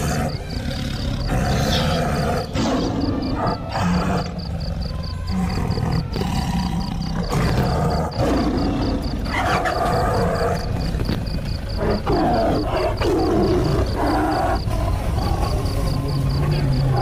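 Lioness vocalizing: a series of low calls, several falling in pitch, over a steady low rumble.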